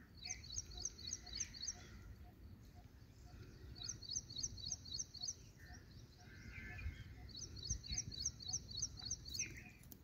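Songbird singing: a quick run of high, evenly repeated chirps, given three times with short pauses between. Softer bird calls sound in between.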